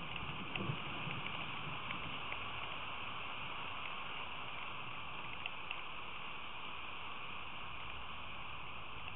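Steady hiss of heavy rain falling, with a low thunder rumble dying away in the first second and a few faint drip ticks.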